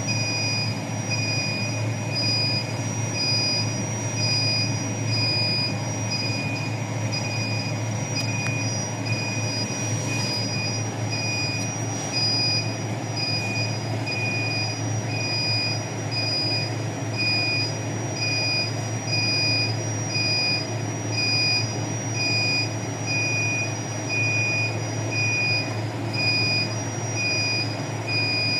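Air handling unit running with a steady hum and rush of air, while an electronic alarm beeps repeatedly at about one beep a second.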